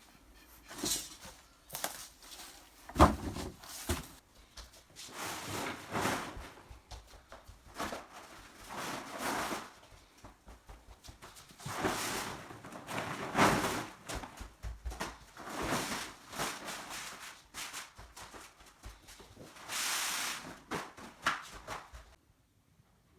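Irregular scraping, rustling and knocking from hands-on work, with one sharp knock about three seconds in; it stops suddenly near the end.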